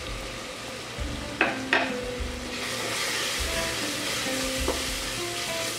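Chopped onions, tomatoes and green chillies sizzling in hot oil in a metal cooker pot as a wooden spatula stirs in spice powder. Two sharp knocks come about a second and a half in, and the sizzle grows louder in the second half.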